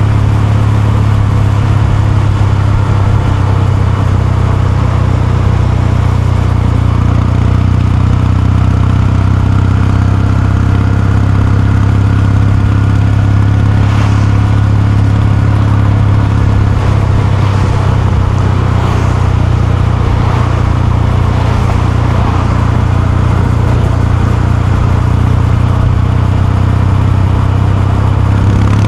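Kawasaki Meguro K3's air-cooled 773 cc parallel-twin engine and exhaust running at a steady engine speed. The engine note holds almost constant, with a slight rise partway through.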